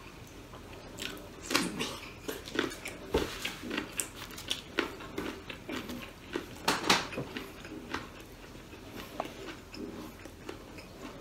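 A person chewing and biting crunchy food close to the microphone: irregular crunches and wet mouth smacks, busiest in the first eight seconds and thinning out near the end.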